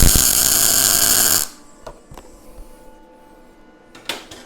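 Arc welder laying a single tack weld on a steel plate: a loud, steady crackling arc lasting about a second and a half that cuts off abruptly. A couple of short sharp clicks follow near the end.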